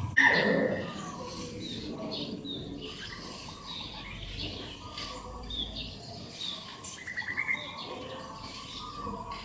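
Small birds chirping, with short calls scattered throughout and a quick trill about seven seconds in. A brief louder sound comes just at the start.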